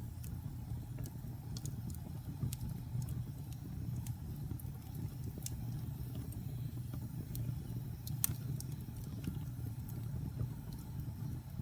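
Wood fire burning in a fireplace: a steady low rumble of the flames with scattered sharp crackles and pops, one louder pop about eight seconds in.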